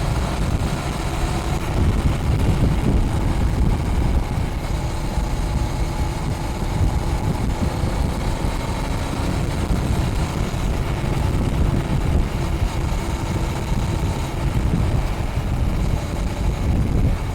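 Honda Rebel 500's parallel-twin engine running through its stock exhaust while under way, with heavy wind buffeting on the microphone.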